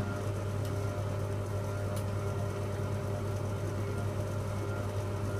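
Hoover Logic A3790 washing machine running with a steady, smooth, even hum and no knocking.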